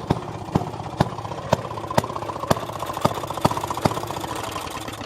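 Maytag gas-powered wringer washer's small two-stroke engine running steadily, with a sharp knock about twice a second.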